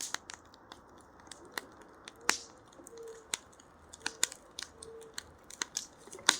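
Wood fire crackling, with irregular sharp pops and snaps; the loudest come about two seconds in and again near the end.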